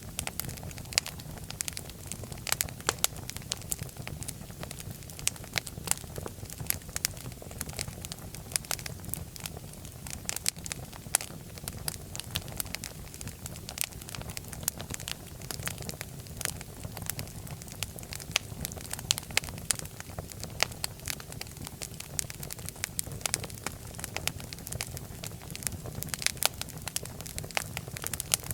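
Fire crackling in a fireplace: many irregular sharp pops and snaps over a steady low rumble of the flames.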